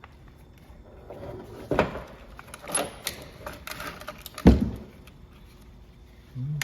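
Tools and metal parts being handled during string-trimmer clutch work: a few irregular clacks and knocks, with one sharp, louder knock about four and a half seconds in.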